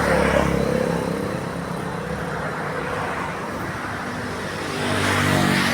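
Road traffic: a motor vehicle's engine passes near the start and another swells up near the end, over a steady hum of road noise.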